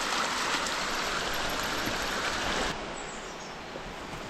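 A stream running steadily, an even rush of water. The sound drops suddenly to a lower level a little under three seconds in.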